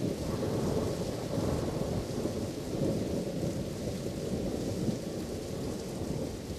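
Steady rain with a continuous low, rolling rumble of thunder underneath.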